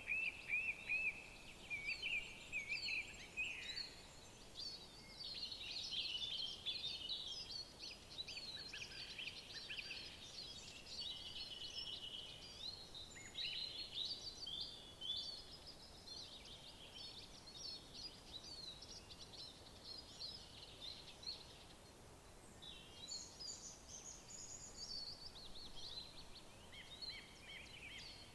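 Several songbirds singing and calling together, many quick chirps and trills overlapping, busiest through the middle, over a faint steady background hiss.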